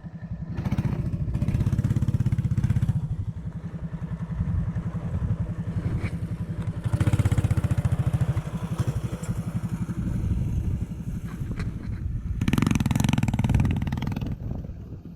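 Mini bike's small single-cylinder engine running as it is ridden, the throttle opening and closing so that it surges louder about a second in, again around the middle, and again near the end.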